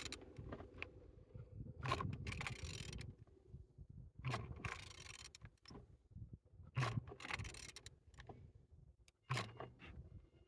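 Removed engine being turned over by hand: four strokes of mechanical scraping and clicking, each about a second long and roughly two and a half seconds apart. The engine turns smoothly.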